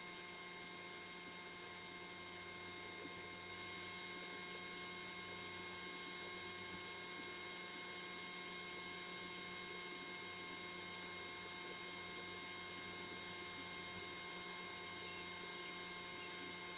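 Bubble machine's small electric fan motor running steadily, a faint hum made of several steady tones that gains a higher whine about three and a half seconds in.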